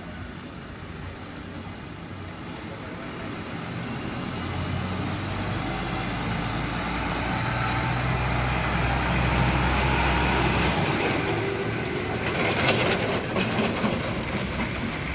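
Large truck's diesel engine running and growing steadily louder, as if drawing closer, with a burst of rattling knocks near the end.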